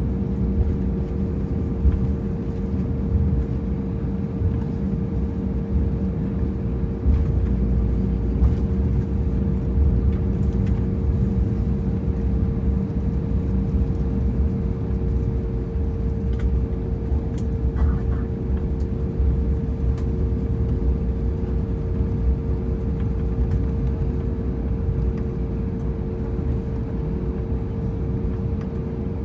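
Cabin noise inside an Airbus A320 taxiing after landing: a steady engine hum with two held tones over a continuous low rumble, with small uneven bumps in loudness.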